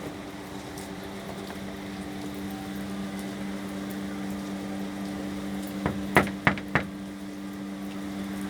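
Steady rain with a low, even hum under it, and three or four sharp knocks in quick succession about six seconds in.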